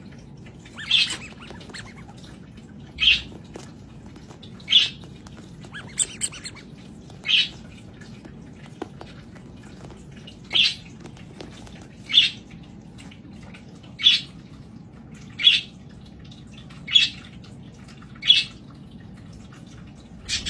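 A parrot giving short, loud calls over and over, about eleven of them, roughly one every one and a half seconds.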